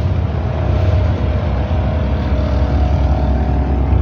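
Boat engine running steadily, a loud, even low rumble with a faint steady whine above it.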